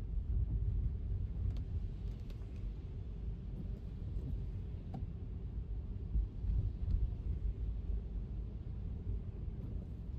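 Steady low rumble of an electric car's tyres on wet road, with a few faint scattered ticks on top.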